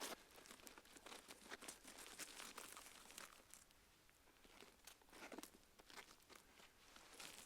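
Faint wood campfire burning, with frequent irregular crackles and small pops over a soft hiss.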